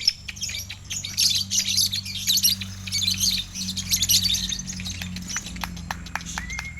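Lovebirds chattering in rapid, dense high-pitched chirps over a low steady hum. Near the end a steady high tone with regular clicks comes in.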